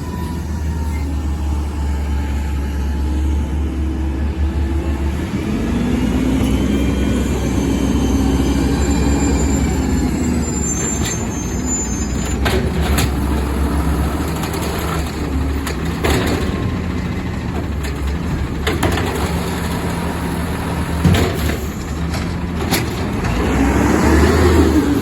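Garbage truck engine running steadily under a rising and falling whine, with several sharp bangs spaced a few seconds apart in the second half.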